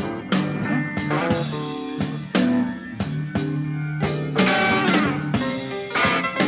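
Blues-rock band playing an instrumental passage: electric guitar notes over bass and a drum kit keeping a steady beat.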